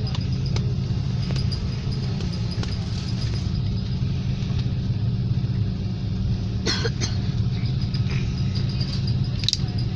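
Steady low rumble of a plane's engines during takeoff, with two short sharp rattles in the second half.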